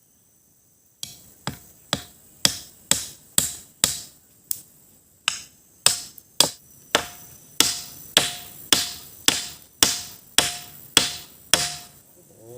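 A parang (machete) striking wood in a steady series of blows, about two a second, each with a short ring, starting about a second in.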